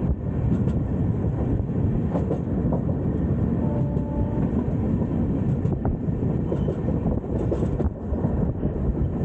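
Steady running rumble of a passenger train's LHB coaches heard from on board, wheels rolling on the rails with scattered light clicks. A faint short tone sounds about four seconds in.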